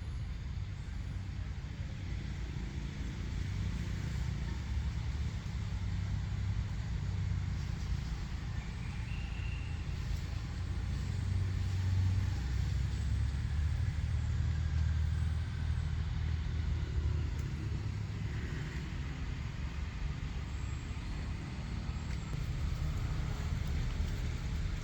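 A steady low rumble that swells for several seconds in the middle and then eases back, with a few faint high chirps over it.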